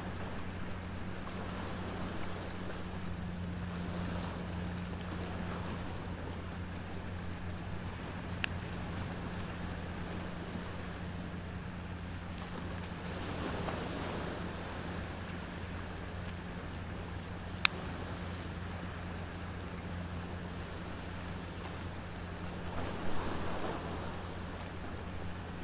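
Steady ocean surf, with waves washing in twice, over a burning bonfire that gives two sharp pops, the louder one about two thirds of the way through.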